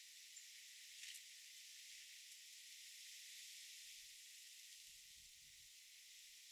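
Near silence: a faint, steady hiss with a single faint tick about a second in.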